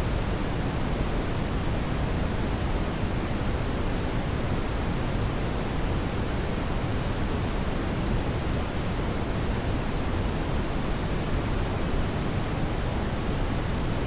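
Steady brown noise: an even, deep rushing hiss, strongest in the low end, with no change.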